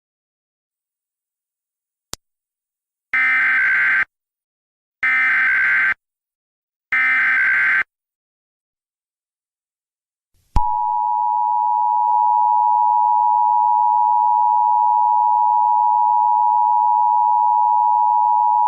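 A short click, then three one-second digital data tones about a second apart: the Emergency Alert System SAME header that encodes the alert. After a pause comes the steady EAS two-tone attention signal, 853 and 960 Hz sounding together for about eight seconds, which announces an emergency alert message.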